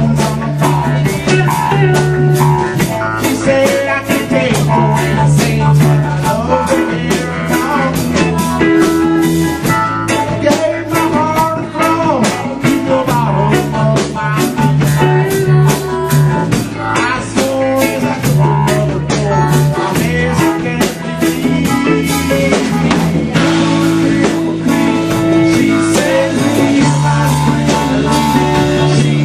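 Live band playing a blues-rock jam: guitar over a walking bass line and a drum kit keeping a steady beat.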